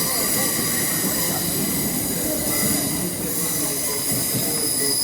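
A train moving through the station, its wheels squealing in several steady high-pitched tones over a low rumble.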